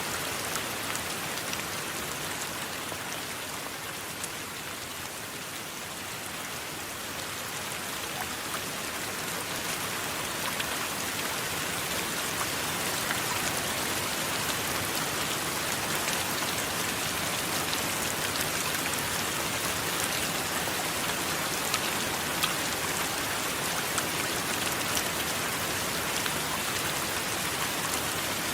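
Steady heavy rain, an even hiss with scattered sharp drop ticks. It eases slightly a few seconds in, then builds back and holds steady.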